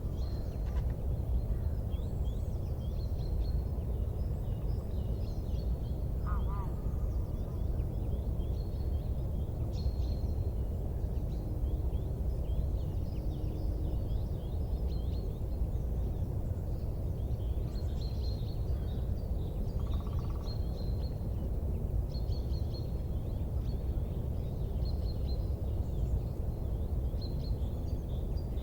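Small birds chirping in quick, scattered calls over a steady low rumble.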